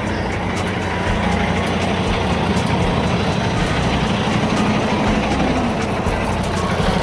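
Truck engine and road noise heard inside the cab while driving, a steady drone with a low hum.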